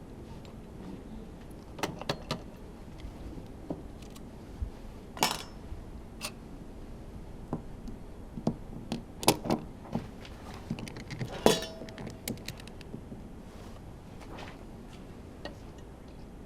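Irregular metallic clinks, taps and knocks of hand tools and metal engine parts being handled while an F1 engine is taken apart. The loudest cluster comes in the middle, and one knock leaves a short ringing tone.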